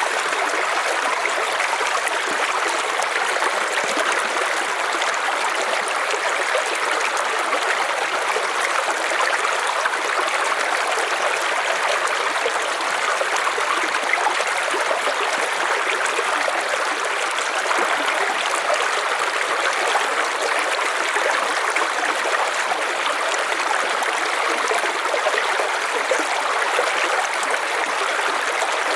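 River water flowing over stones, a steady rushing and babbling with no break.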